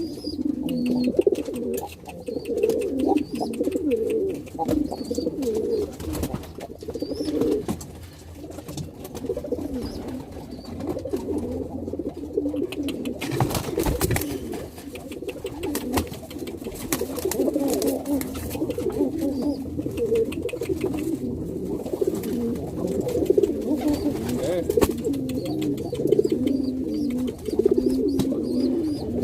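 Domestic pigeon cooing over and over in warbling runs with short breaks: a cock bird courting and driving a hen.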